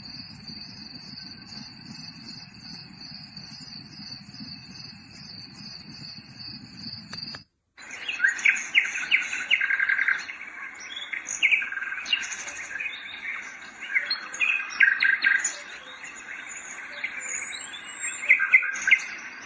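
Recorded birdsong played back through a small white noise machine's speaker: many short chirps and trills. It comes after a steady nature track with a high, even chirring tone over a low hum, which cuts off about seven seconds in.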